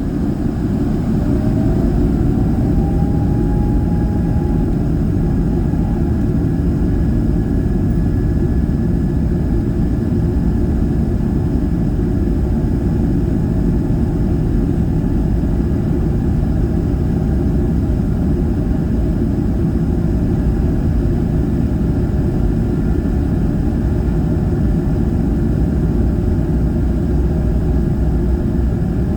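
Airbus A220-300's Pratt & Whitney PW1500G geared turbofan engines at takeoff thrust, heard from inside the cabin: a loud, steady rumble that builds over the first second or two as an engine tone rises and then holds.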